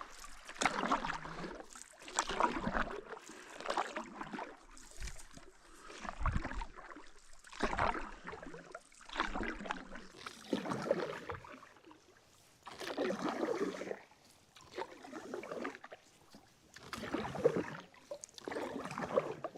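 Paddle strokes in calm water: the blade dipping and pulling with a swish of water, about one stroke every second and a half, with a couple of brief pauses.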